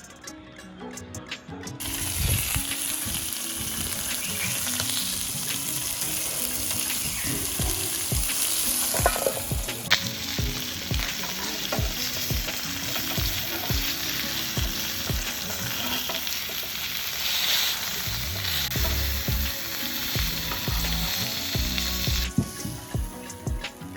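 Mullet fish sizzling as it cooks on the heat, a steady hiss with occasional knocks and scrapes of utensils. It starts about two seconds in and cuts off near the end.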